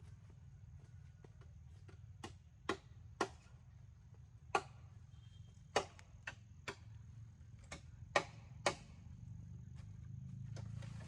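About a dozen sharp knocks at uneven intervals, starting about two seconds in and stopping near the end, over a faint low background hum.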